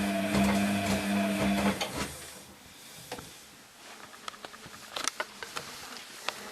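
Hoover HTC 172 washing machine's motor turning the drum with a steady hum, which cuts out about two seconds in. The drum then rests, with light scattered clicks.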